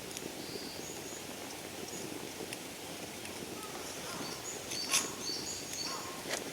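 Birds chirping in short, high notes over a steady low background hiss, with a few sharp clicks; the loudest click comes about five seconds in.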